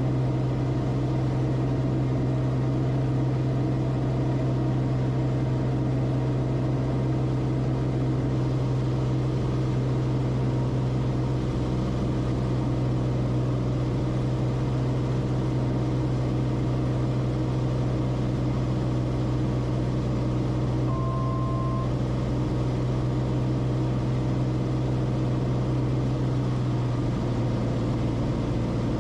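Steady drone of the Cessna Corvalis TTX's engine and propeller heard inside the cockpit, with a low, even hum throughout. A short beep sounds about two-thirds of the way through, and the drone's low end shifts slightly near the end.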